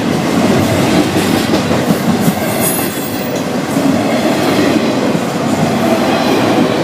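Freight cars of a slow Florida East Coast Railway train rolling past close by: a steady rumble of steel wheels clattering on the rails.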